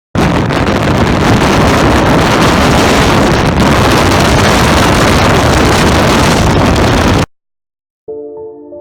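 Loud, steady wind noise rushing over the microphone of a moving vehicle. It cuts off abruptly about seven seconds in.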